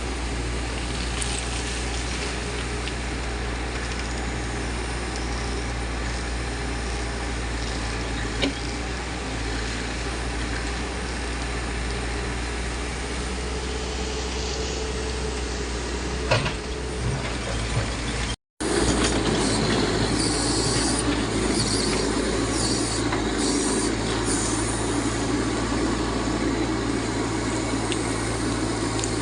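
Backhoe loader's diesel engine running steadily with a low drone, with a couple of short sharp knocks. Just past the middle the sound cuts out for an instant and comes back louder.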